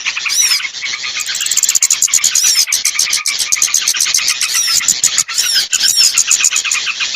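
Bird-lure recording of many small birds calling together: a dense, continuous mix of rapid chirps and trills, with a short falling whistled note repeating every second or two.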